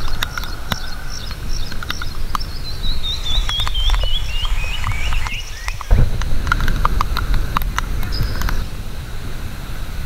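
A bird sings a quick run of repeated notes, about four a second, that fall steadily in pitch through the middle. Around it are scattered clicks and knocks of hikers climbing stone steps, with a sharp thump about six seconds in, over a low steady rumble.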